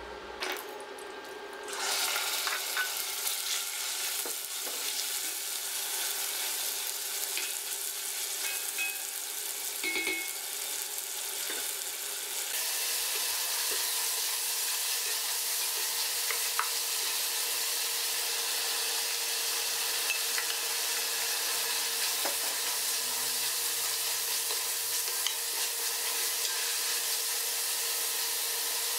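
Diced chicken breast sizzling as it fries in melted butter in an enamelled cast-iron pot, stirred with a wooden spoon, with small scrapes and clicks from the spoon. The sizzle starts about two seconds in and grows louder about twelve seconds in.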